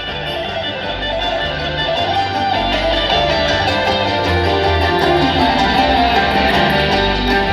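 Live bluegrass band playing an instrumental passage, with picked acoustic guitar, fiddle and a pulsing bass.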